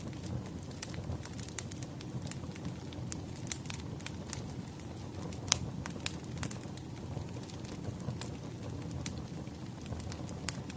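Wood fire crackling: irregular sharp pops and snaps over a low steady rumble, with one louder pop about halfway through.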